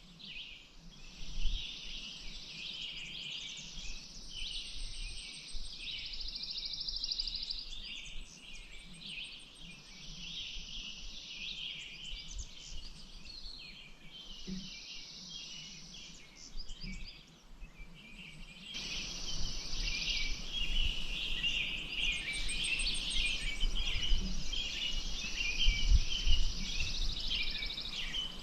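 Dense chorus of many small birds chirping and singing, with a faint steady rush beneath that grows fuller about two-thirds of the way through.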